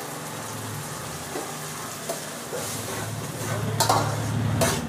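Tomato purée sizzling as it is poured into hot mustard oil and fried onions in a steel kadai. Near the end a spoon scrapes the pan a few times as the mixture is stirred.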